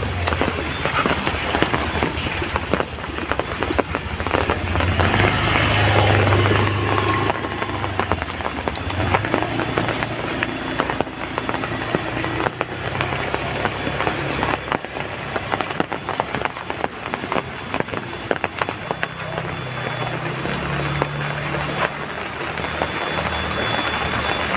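Heavy rain falling steadily, with many drop impacts. Under it runs a low motor hum from a passing vehicle, louder about five to seven seconds in and again late on.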